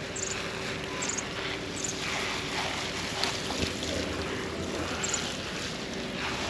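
Water from a hose rushing and spraying onto a dog during its bath, a steady rushing noise that is loudest in the middle, over a faint steady hum.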